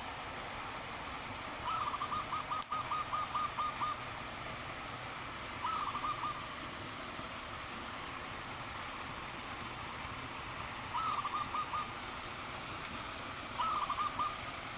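A dove cooing: a quick run of about ten short coos, then three shorter bursts of rapid notes, over a steady background hiss.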